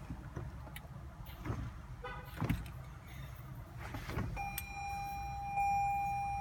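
Scattered clicks and knocks from the car, with a brief buzz about two seconds in. About four and a half seconds in, a steady high electronic tone starts and holds. It fits a vehicle chime from a 2016 Toyota Highlander that fails to start.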